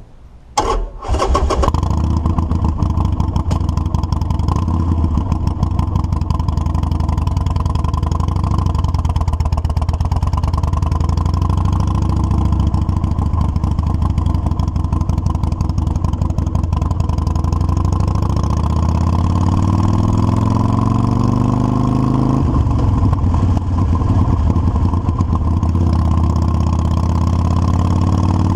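Motorcycle engine started: a brief crank about half a second in, catching at once, then running steadily and loudly, its pitch slowly rising and falling a few times.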